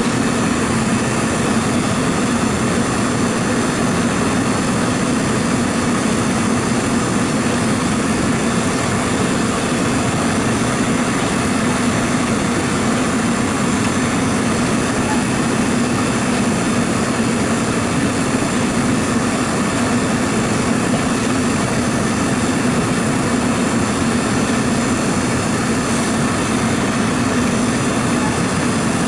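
A steady, loud mechanical drone with a constant low hum, unchanging throughout.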